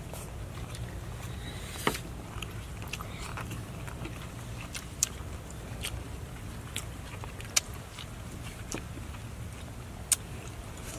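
Someone eating grilled fish by hand: wet mouth clicks and smacks of chewing, scattered every second or two over a steady low rumble.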